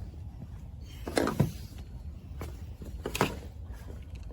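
Parts and hand tools being handled during hands-on reassembly: a few sharp clicks and knocks, the loudest pair about a second in and another near three seconds, over a steady low hum.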